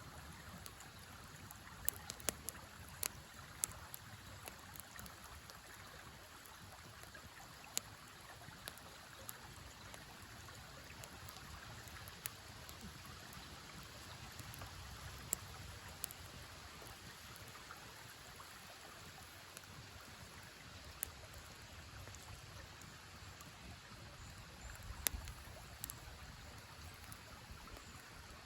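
Steady flowing of a river, with a wood campfire crackling in scattered sharp pops, a cluster in the first few seconds and single louder ones later.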